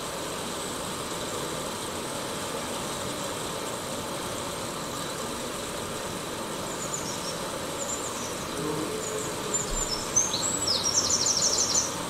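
Blackbirds calling: scattered high chirps from about seven seconds in, then a fast run of high, clicking notes near the end, the loudest sound, over a steady background hum.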